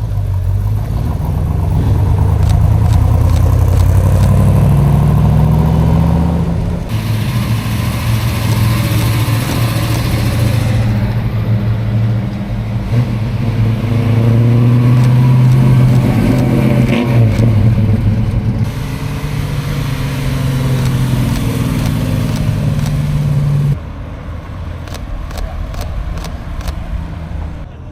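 Several car and truck engines one after another, running and accelerating, their pitch rising and falling, with abrupt changes from one engine sound to the next.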